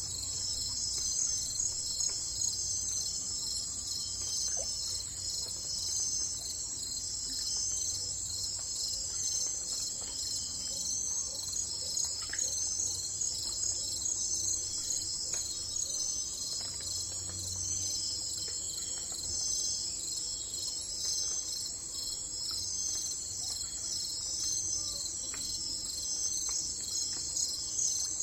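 A steady chorus of crickets or other insects, a dense pulsing high-pitched trill that never stops, with a faint low rumble beneath.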